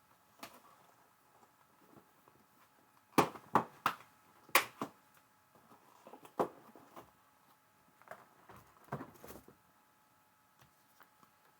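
Small sharp taps and clicks from handling paper die cuts and crafting tools on a work table, in scattered groups, the loudest cluster about three to five seconds in and more around nine seconds.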